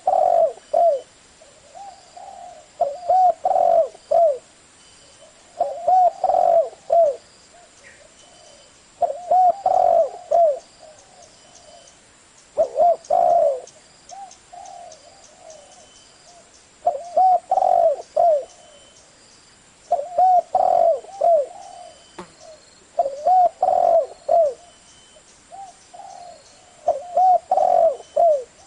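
Spotted dove cooing: a phrase of several low, curving coos, repeated about every three seconds.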